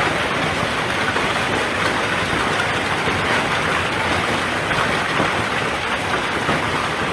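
Hailstorm with heavy rain: hail and rain pelting a surface in a dense, steady roar of many small impacts.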